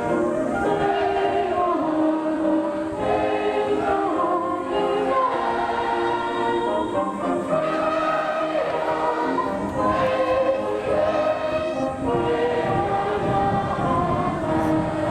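Choir singing a school song with musical accompaniment, the song of the winning school played after the game.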